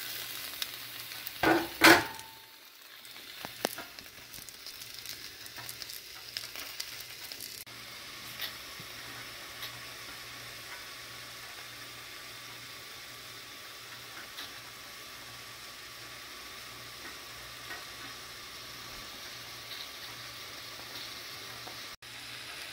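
Cut Kentucky Wonder green beans sizzling in olive oil in a metal pan. Two sharp knocks come close together near the start, the second ringing briefly, and scattered light clicks follow for a few seconds. After that comes a steady sizzle.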